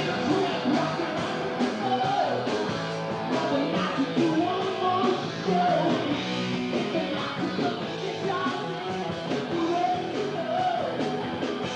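Rock band song playing, with electric guitar and singing.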